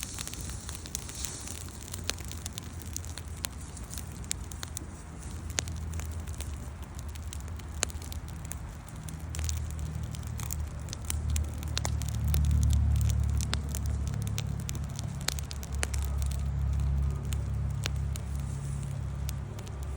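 Campfire of burning wood crackling, with many sharp separate pops and snaps over a soft hiss. Under it a low rumble swells about halfway through and eases off near the end.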